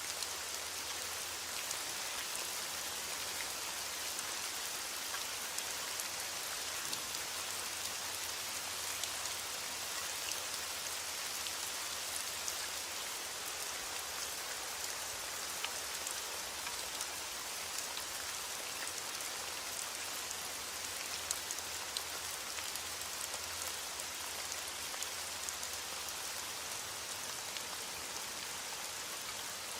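Steady, even rain falling on a surface, with many individual drops ticking sharply through the hiss.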